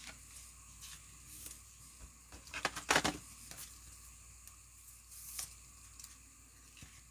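Trading cards and pack wrappers being handled: faint scattered clicks, with a short burst of rustling about three seconds in.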